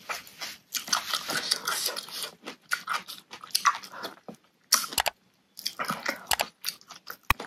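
Close-miked eating sounds: food being chewed and crunched in irregular bursts, with short pauses between mouthfuls and a sharp click near the end.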